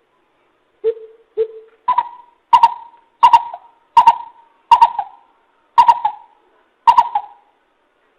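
Coucal calling: a series of deep hollow hoots, two lower notes followed by seven higher ones at an even pace of a little over one a second, spacing out slightly near the end.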